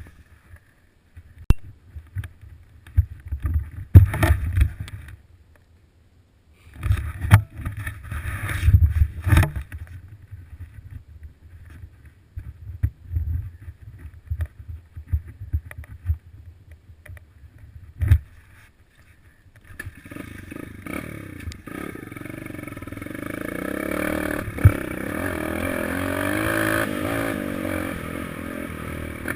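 Small four-stroke single-cylinder pit bike engine running and revving up and down, coming in about twenty seconds in. Before that, irregular bursts of low rumbling with sharp knocks.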